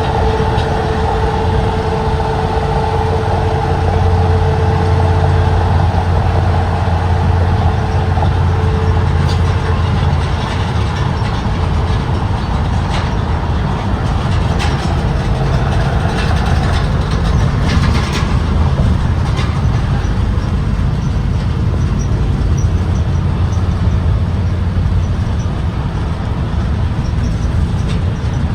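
2023 Blue Bird Vision propane school bus running on the road, a steady low engine and road drone. A whine fades out about a third of the way in, and a few light clicks and rattles come through in the middle.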